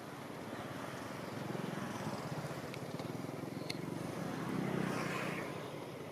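A motor vehicle's engine passing: a low, rapid putter that swells about a second in, is loudest around five seconds in, then fades. A few faint clicks come in the middle.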